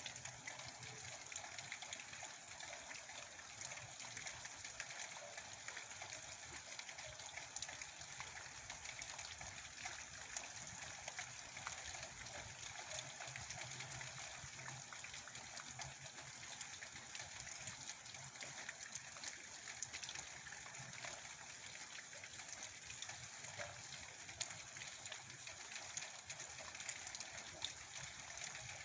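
Rain falling steadily, a continuous hiss with a dense scatter of small drop ticks.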